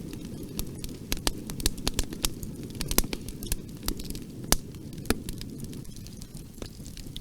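Bonfire burning: a low, steady rumble of flame with frequent sharp, irregular crackles and pops of burning wood, a few louder snaps among them.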